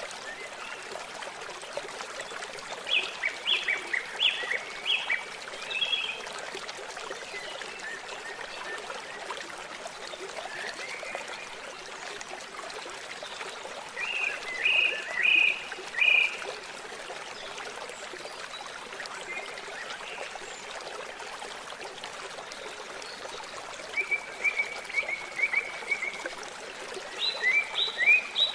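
Water running with a steady rush, with a few short bursts of quick, high chirping calls from small animals.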